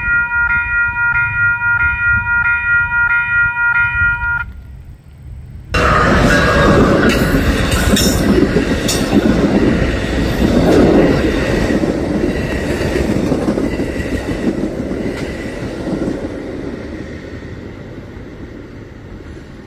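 A railroad crossing bell ringing in even pulses about twice a second for the first four seconds. After a brief lull, the loud rumble and rail noise of a passing train starts abruptly and slowly fades.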